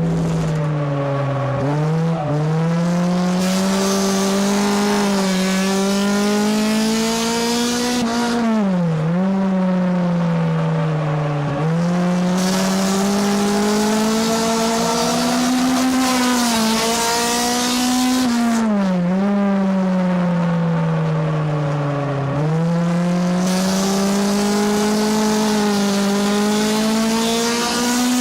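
Race car engine heard from inside the car at racing speed around a short oval. Its revs climb steadily, then drop sharply and pick up again about five times as the driver lifts and gets back on the throttle. Long stretches of high tire squeal come in between the lifts, the worn tires working at the limit of grip.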